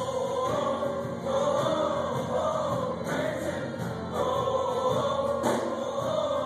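A choir singing, holding long notes one after another that glide in pitch, with no break.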